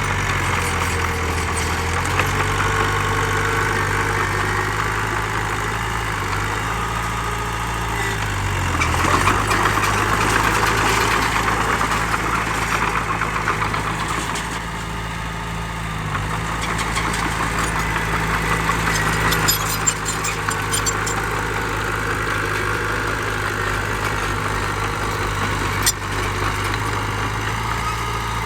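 Diesel engine of a heavy earthmoving machine running steadily, getting louder and rougher for a few seconds about a third of the way in. Two sharp knocks come in the second half.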